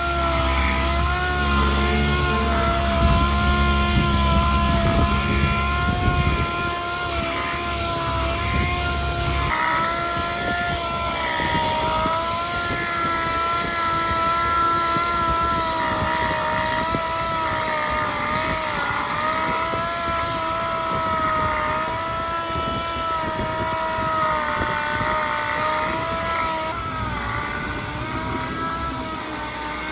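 A motor running steadily with a whine that wavers slightly in pitch, as under changing load, with a low rumble underneath that drops away about six to nine seconds in.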